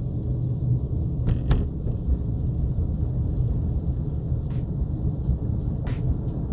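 Steady low rumble of a car moving slowly on a snowy, slippery road, heard from inside the cabin, with a few faint clicks.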